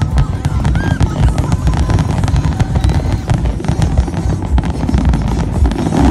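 Fireworks display: a dense barrage of aerial shells bursting in quick succession, rapid bangs and crackling over a continuous low rumble.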